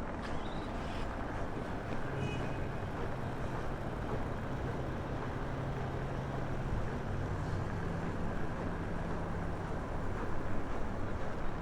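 Strong wind buffeting the microphone, under which a motor vehicle's engine hums low from about two seconds in, its pitch stepping up a little partway through.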